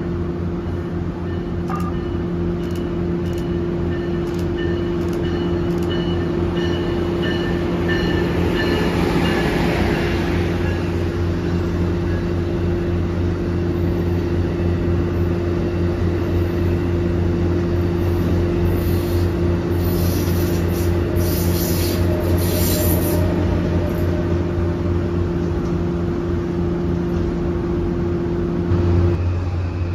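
An Amtrak Acela electric trainset running through a station at speed: rushing wheel-and-rail noise over a steady hum. Sharp high-pitched squeals and clicks come about two-thirds of the way in.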